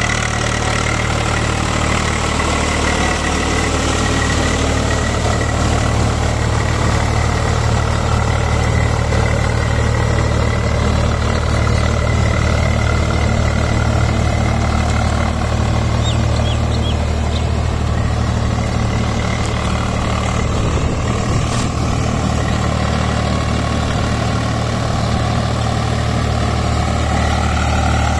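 Swaraj 744 XM tractor's three-cylinder diesel engine running steadily, with a thin high whine over the low engine note.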